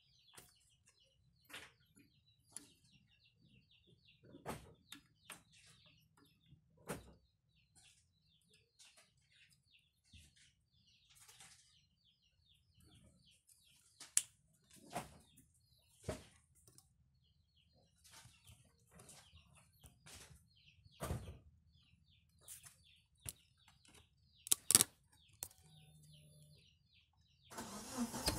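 Faint chirping of small birds with scattered sharp clicks and knocks; about a second before the end, the Timor DOHC's engine comes in loudly.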